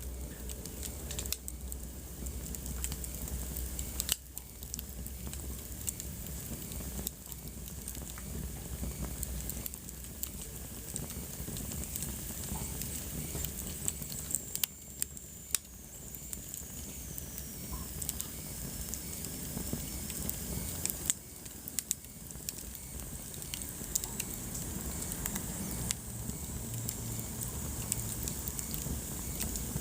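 Wood fire crackling in a fireplace: irregular sharp pops and snaps over a steady low rumble and hiss. About halfway through, a faint high whistle slides down in pitch.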